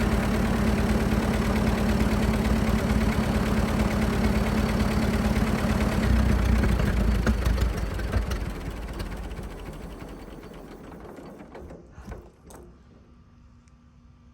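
1924 Fordson F tractor's four-cylinder engine running steadily, then shut off about eight seconds in and slowing to a stop over the next few seconds. A couple of faint knocks come near the end.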